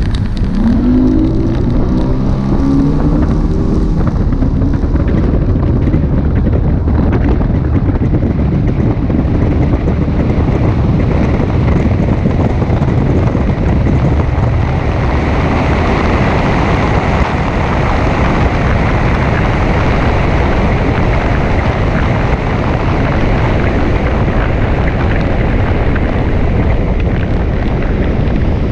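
A motor vehicle's engine running under way, its pitch rising in the first few seconds, with heavy wind noise on the microphone throughout.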